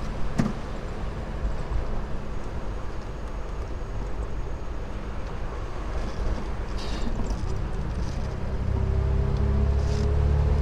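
Triumph Vitesse 2-litre's straight-six engine running as the car drives along at low speed. About eight and a half seconds in, it grows louder and its note slowly rises as the car picks up speed.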